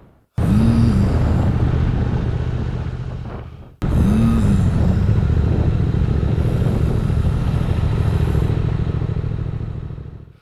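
Loud, low, engine-like rumble that cuts in abruptly twice, each time opening with a brief rising-and-falling tone.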